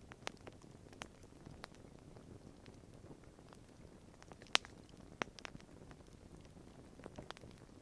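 Wood campfire crackling: irregular sharp pops and snaps over a low hiss of burning, the loudest pop about four and a half seconds in.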